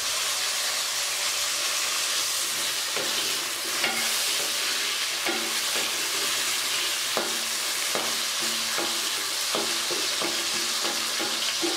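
Sliced onions and tomato frying with a steady sizzle in hot oil in a metal karahi. From about three seconds in, a wooden spatula stirs them, with repeated knocks and scrapes against the pan.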